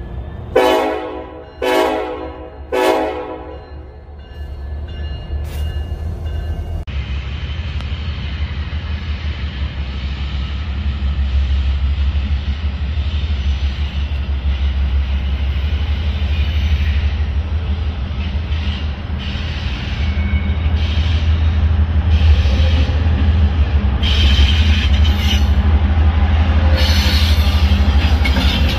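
Diesel freight locomotive horn sounding three blasts, then the low rumble of the locomotives growing steadily louder as the train approaches, with rising wheel-on-rail noise near the end.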